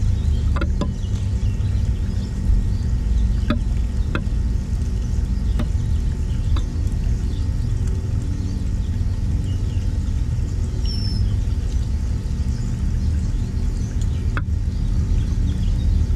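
Steady low rumble with faint, scattered songbird chirps and a short whistled note a little past the middle. A few sharp clicks fall through it, a cluster in the first seven seconds and one more near the end.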